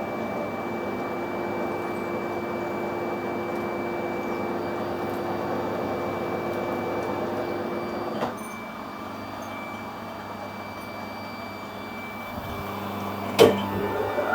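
Metal lathe running under power while screw-cutting a 1.75 mm pitch thread, with a steady hum. About eight seconds in there is a clunk, after which the lathe runs on more quietly. A sharp knock comes near the end.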